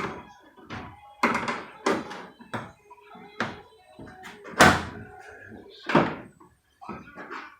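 A trim clip tool prying an old truck door panel off its retaining clips: a string of sharp knocks, snaps and thuds as the clips are worked loose and the panel knocks against the door, the loudest about four and a half and six seconds in.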